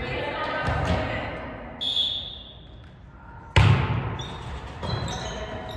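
Volleyball being hit and bouncing on a gym floor, with a sharp loud hit of the ball about two-thirds of the way through, and short sneaker squeaks on the court floor. A short high tone sounds about two seconds in.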